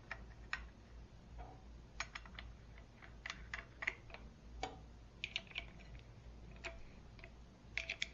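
Light, irregular metal clicks and taps as a diamond cutoff wheel and its flange parts are fitted onto the arbor of an unplugged 4.5-inch angle grinder.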